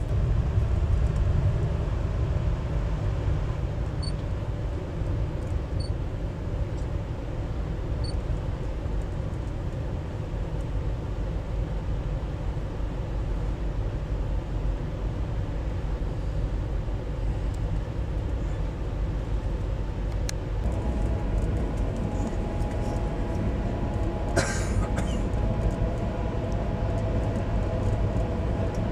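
VIA Rail passenger train running along the track: a steady low rumble of wheels on rails. Steady higher-pitched tones join about two-thirds of the way through, and there is a brief sharp noise a few seconds later.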